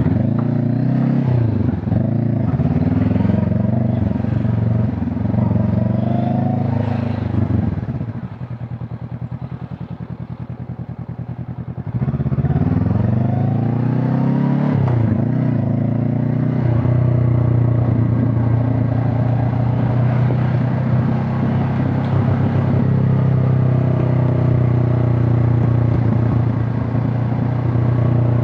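Honda CB500 Hornet's parallel-twin engine and exhaust on the move: the pitch rises and drops repeatedly as it accelerates through the gears, goes quieter for a few seconds after about eight seconds, picks up again with a rising pull, then settles into a steady cruise for the second half.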